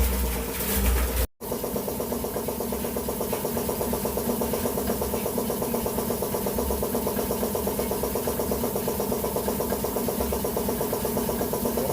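A loud low rumble for about the first second, then after a short cut a small engine or motor running steadily with a fast, even pulse.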